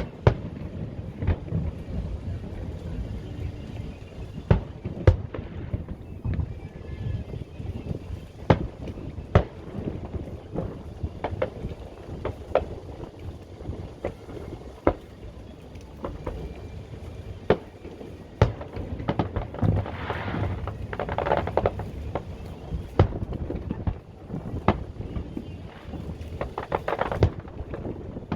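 Fireworks going off: about fifteen sharp bangs at irregular intervals, a few seconds apart, over a low rumble of wind on the microphone.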